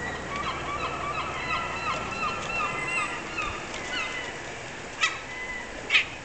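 Seagulls calling: a rapid run of short, repeated squealing notes for about three seconds, then a few scattered calls. Two short, sharp, louder sounds come near the end.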